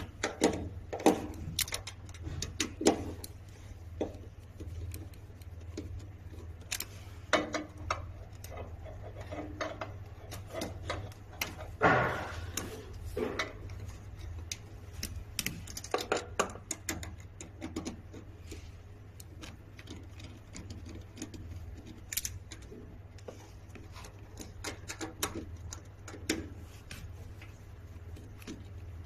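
Irregular clicks, taps and clinks of hand tools and small metal parts being handled while electrical wiring is taken apart, over a steady low hum. The loudest knock comes about twelve seconds in.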